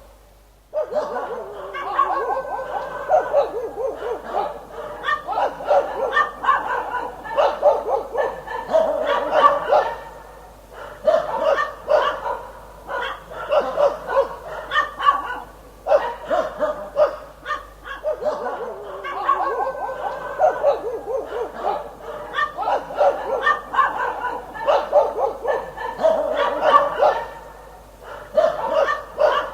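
Dog barking in rapid runs of barks, broken by short pauses. The barking starts about a second in.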